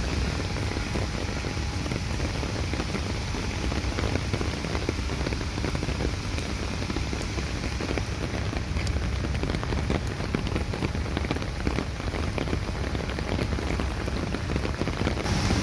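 Steady rain falling, a continuous hiss dotted with many small drop ticks, over a low rumble.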